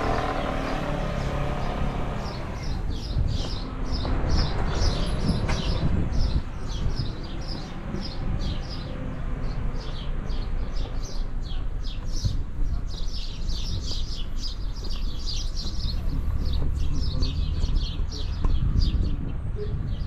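A small bird chirping over and over, about three or four short high chirps a second, starting a couple of seconds in, over a steady low rumble.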